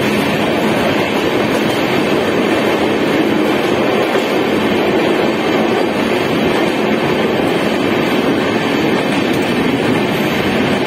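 Passenger train running along the track, a steady, even rumble of wheels and carriage heard from on board.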